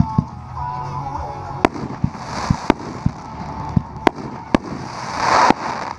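Pyro Demon 5-inch canister shell fireworks breaking with big, hard breaks: a string of sharp bangs with two swells of crackling hiss, the loudest near the end.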